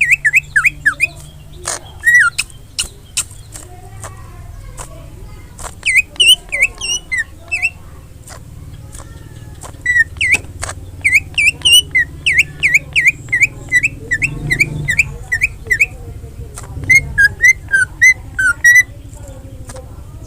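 Cucak ijo (green leafbird) singing in quick phrases of short, sharp whistled notes with brief pauses between them, mixed with a few sharp clicks, over a steady low hum.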